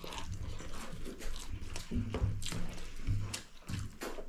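Close-up eating sounds: wet chewing and mouth smacks, with short sharp clicks scattered through.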